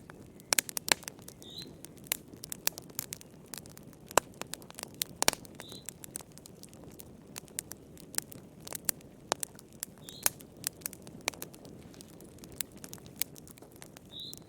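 Wood fire in a fireplace crackling, with frequent irregular sharp pops and snaps over a low steady rush of flame. A faint short high chirp recurs about every four seconds.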